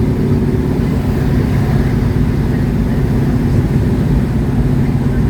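A 1967 Ford Mustang convertible's engine running steadily at cruise, with road and wind noise, heard from inside the moving car.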